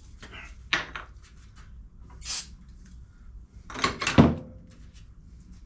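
Small brake wheel cylinder parts being handled and set down on a workbench: scattered clicks, a short hiss about two seconds in, and a cluster of knocks around four seconds in, the loudest, followed by a brief ringing tone.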